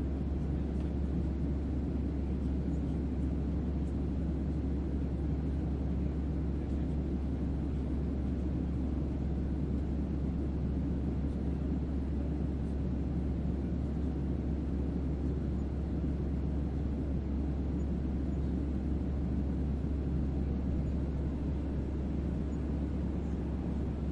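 Steady deep bass hum under an even, low rumbling noise: a sci-fi starship-interior white-noise ambience for sleep, unchanging throughout.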